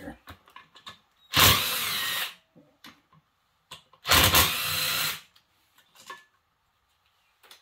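Power impact wrench run in two bursts of about a second each, a few seconds apart, working on a fastener of a seized engine during disassembly, with small clicks of handling between.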